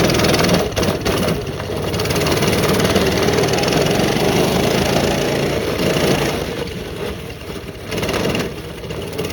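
Mini bike's small single-cylinder engine running steadily, quieter after about six and a half seconds.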